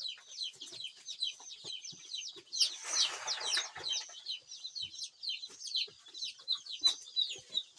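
Many newly hatched chicks peeping continuously, a dense chorus of short high cheeps. A brief rustling noise about three seconds in.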